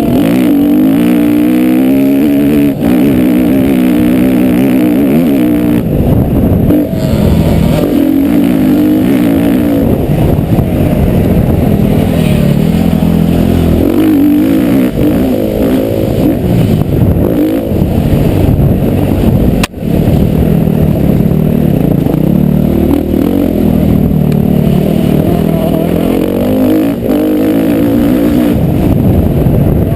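Motocross bike engine being ridden hard round a dirt track, its pitch rising and falling over and over as the throttle opens and closes through the gears. The sound cuts out briefly about two-thirds of the way through.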